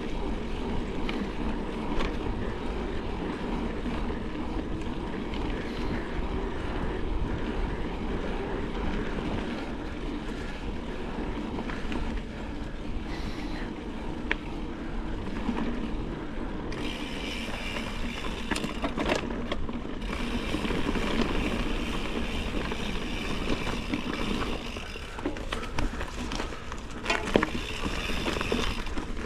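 A horse being ridden, with its hoofbeats and movement noise running steadily and no voices. A hissing rustle joins in about halfway through and continues for most of the rest.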